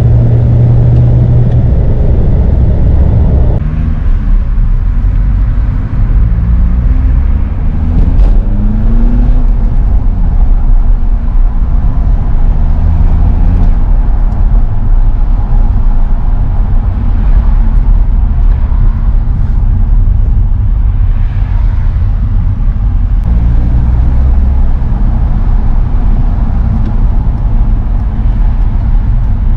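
Straight-piped, remapped BMW E46 320d four-cylinder turbodiesel running loud, its exhaust note rising and falling in pitch several times between about 4 and 14 seconds. The sound changes abruptly about 4 seconds in and again near 23 seconds.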